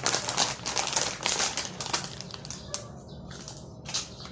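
Plastic snack-chip bag crinkling as it is handled and opened, with dense crackling for about two seconds, then only scattered crackles.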